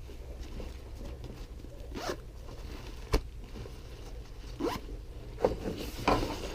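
Zippers on a fishing life vest's pockets being pulled, several short zips about a second apart, with a sharp click about three seconds in.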